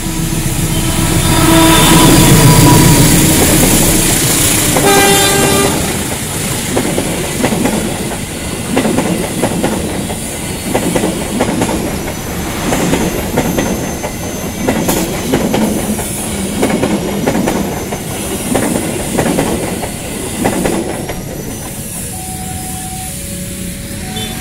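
CC 201 diesel-electric locomotive passing close, its engine loudest in the first few seconds, with a short horn blast about five seconds in. The passenger coaches' wheels then clatter over the rail joints for about fifteen seconds. Near the end a level-crossing warning signal sounds in two alternating tones.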